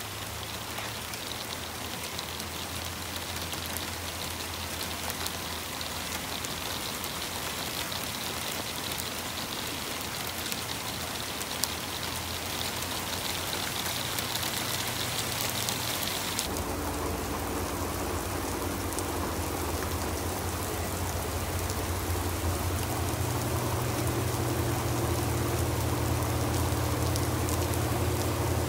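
Steady rain falling and pattering on wet surfaces, growing gradually louder. About halfway through the sound shifts abruptly, with a low rumble and a faint hum added beneath the rain.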